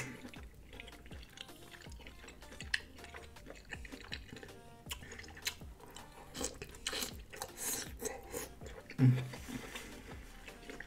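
Close-miked eating sounds: wet chewing, smacking and squelching of lobster tail meat dripping with melted garlic butter sauce, full of small clicks. A short low hum from the eater comes about nine seconds in.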